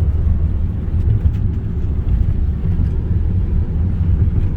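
Steady low road rumble inside a moving car's cabin: engine and tyre noise at cruising speed.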